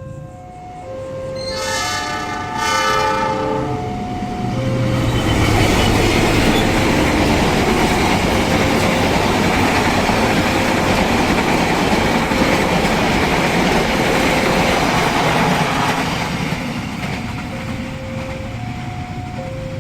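A passenger train sounds its horn for about two seconds near the start, then passes close by with a loud, steady rumble and clatter of wheels on rail that fades over the last few seconds. A two-note tone repeats faintly underneath.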